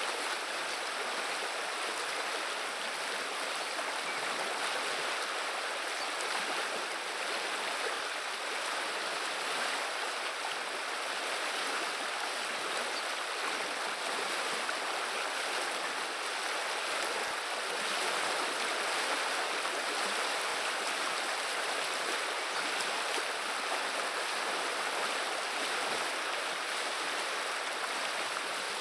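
River water running and burbling, a steady rushing murmur that does not change.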